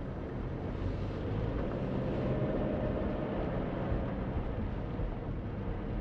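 Car being driven slowly: a steady engine and road rumble, with the engine note rising briefly about two seconds in.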